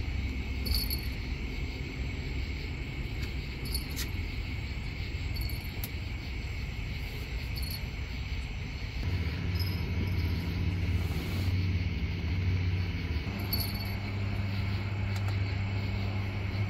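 Crickets chirping in a steady night chorus over a low rumble. About halfway through, a steady low hum comes in.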